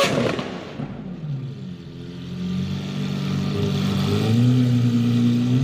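Car engine revving up, its pitch climbing in two or three steps like gear changes, over a steady hiss.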